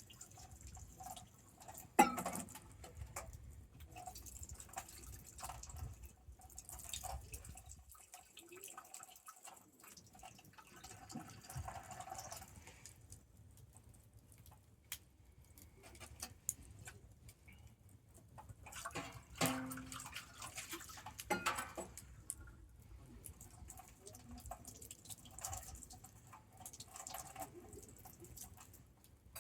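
Wood bonfire burning and crackling with scattered small pops, a sharp pop about two seconds in and a few louder pops past the middle.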